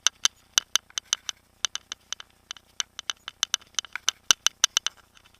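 Mountain bike rattling over a rough trail: irregular sharp clicks and knocks, several a second, with one louder knock about four seconds in.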